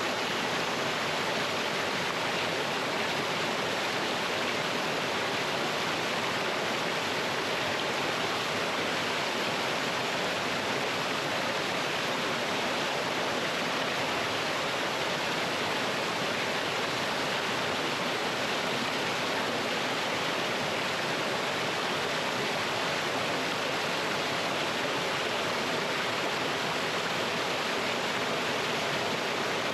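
Mountain stream with a small waterfall, water rushing and splashing over rocks in a steady, unbroken wash.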